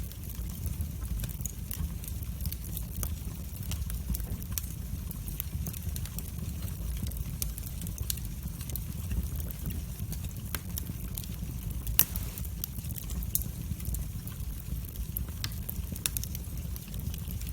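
Fire burning in a fireplace: a steady low rumble of flame with frequent sharp crackles, and one louder pop about twelve seconds in.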